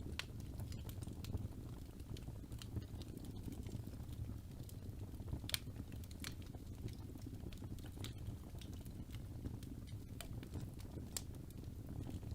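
Wood fire burning in a fireplace: a steady low rumble of flames with scattered sharp crackles and pops, the loudest about five and a half seconds in and again near the end.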